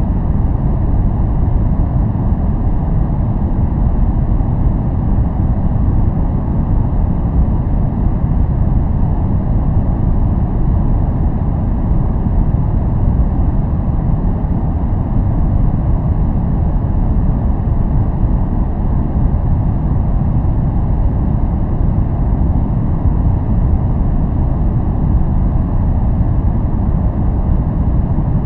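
Steady, unchanging noise track sold as white noise for focus. Its energy is heaped in the bass with little treble, so it sounds like a deep, even rumbling hiss rather than a bright one.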